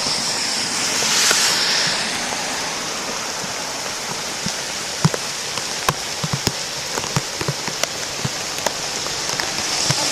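Steady rain with sharp, scattered drop hits close by, over the continuous rush of a creek in flood.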